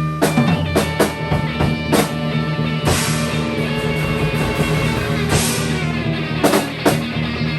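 A rock band improvising live: sustained guitar notes over a drum kit, with cymbal crashes and drum hits that come thick in the first few seconds and again near the end.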